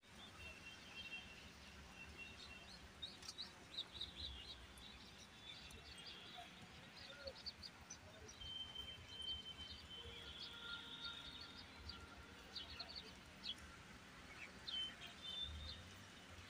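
Faint bird chirping, many short high calls and a few held notes, over a low background rumble.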